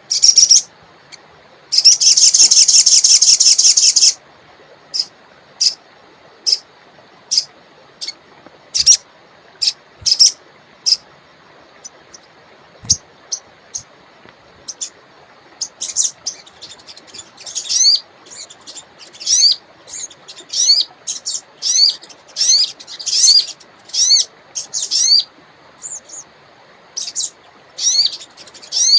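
Crimson sunbird (sogon) calling: sharp, high chips at irregular spacing, a rapid high trill about two seconds in, then from about halfway a fast run of quick sweeping high notes, over a faint steady hiss.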